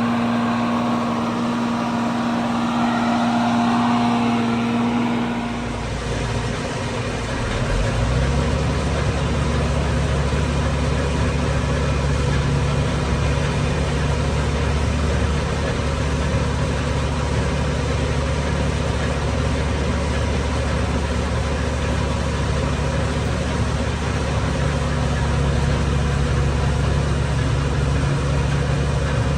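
Diesel farm machinery running steadily during corn grinding. A higher hum stops about five and a half seconds in, and a deeper steady drone takes over about eight seconds in.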